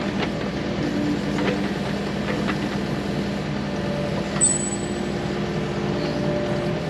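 A machine hums steadily at a low pitch, with a few short metallic clinks from tools on the undercarriage. About four and a half seconds in, one sharp metal-on-metal strike rings out.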